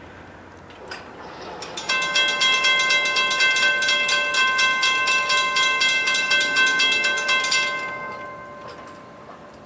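Railroad crossing bell ringing rapidly, starting abruptly about two seconds in and fading out near the end.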